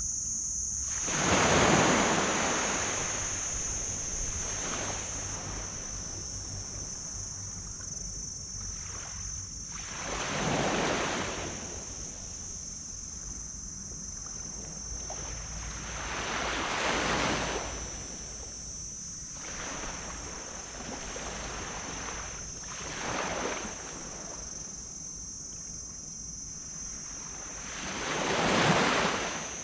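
Small waves breaking on a sand beach: five separate swells of surf, each rising and washing out over a couple of seconds, several seconds apart. The last one, near the end, is among the loudest.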